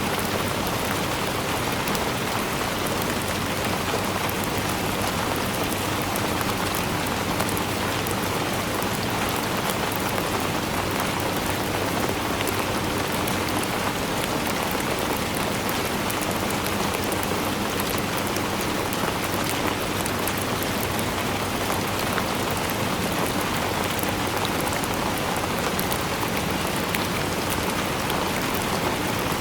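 Steady rainfall: an even, unbroken hiss of rain with the patter of drops on a surface.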